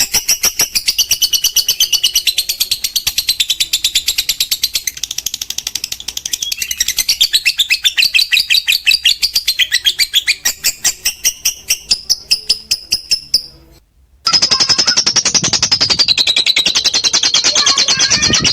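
Lovebird's long 'ngekek' chatter: a fast run of high, repeated notes that breaks off briefly about 14 seconds in and then starts again.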